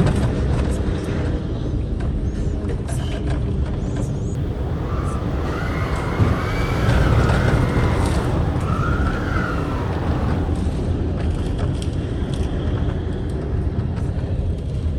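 Heavy low rumble of strong wind buffeting the microphone during close-up footage of a wedge tornado. A wavering higher-pitched sound rises and falls for a few seconds in the middle.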